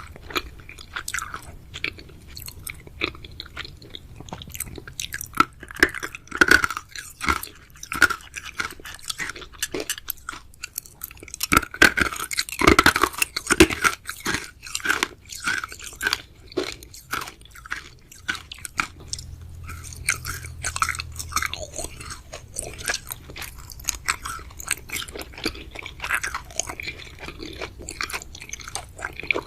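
Close-miked chewing and biting of chewy sweets (boba, jelly and gummies): a dense run of irregular wet smacks and clicks, busiest and loudest about halfway through.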